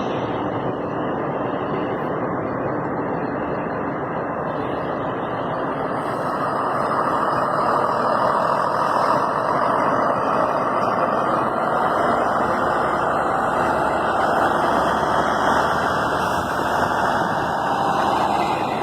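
Scania K340 coach running, a steady engine and road noise that grows louder about a third of the way in and then holds.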